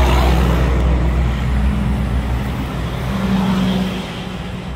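A motor vehicle engine running steadily with a deep low hum, easing off slightly near the end.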